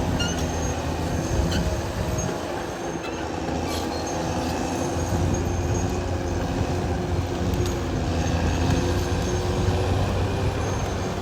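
Caterpillar D6R XL crawler bulldozer working: its diesel engine drones steadily, along with the metallic running noise of its steel tracks and a few short clanks.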